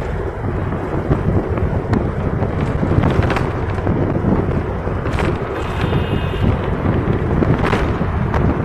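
Bus running on the road: a steady low road-and-engine rumble with wind buffeting the microphone, and a few light knocks along the way.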